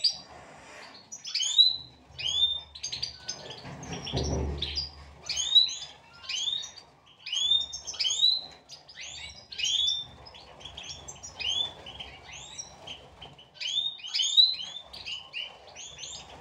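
European goldfinches calling, a flock of quick, high chirps and twitters overlapping without pause. A brief low rumble sounds about four seconds in.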